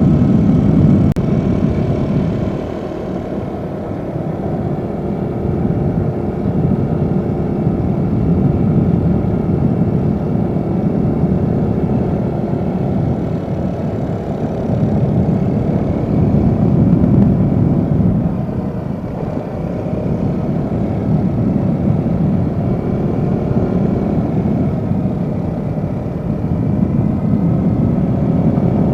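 Yamaha Jupiter Z motorcycle running under way, a steady engine note over a low rumble that swells and fades. The engine has just been tuned, which the rider hopes has cured its stuttering.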